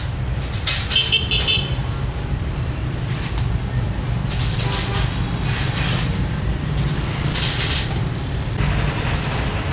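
Street-market ambience: a steady low rumble of passing road vehicles, with short hissing or rustling noises every second or two.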